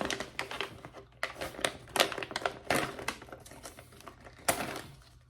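A snack bag being torn open and handled, with crisp irregular crinkling and crackling of the packaging.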